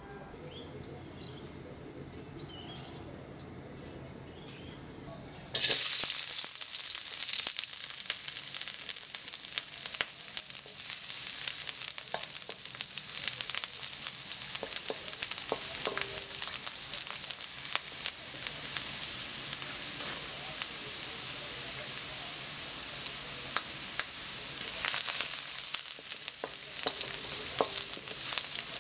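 Chopped red onion and garlic frying in hot oil in a wok and stirred with a wooden spatula: a steady sizzle full of spitting crackles that starts suddenly about five and a half seconds in. Before that, faint bird calls over a low hum.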